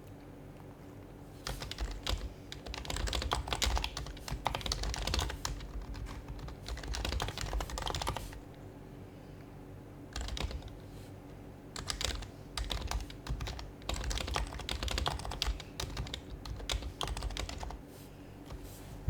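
Typing on an HHKB Professional HYBRID Type-S keyboard, its silenced Topre switches giving soft, muffled keystrokes. There are two quick runs of typing with a pause of about two seconds between them.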